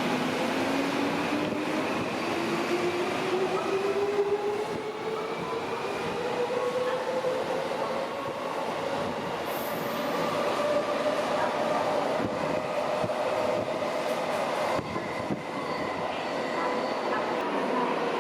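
Electric subway train on the Chiyoda Line pulling away and accelerating, its motor whine climbing steadily in pitch over the rumble of wheels on rail, then levelling off.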